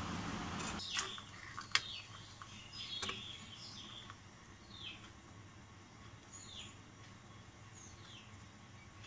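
A steady hiss cuts off within the first second, then a few sharp clicks as wires and diode leads are handled. A bird then gives short falling chirps about every second and a half.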